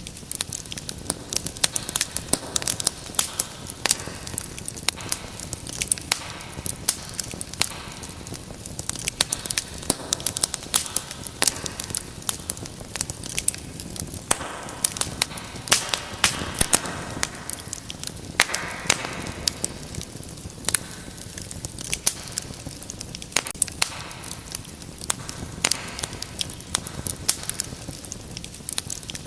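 Wood fire in a fireplace crackling: frequent sharp, irregular pops and snaps over a soft, steady rush of flame.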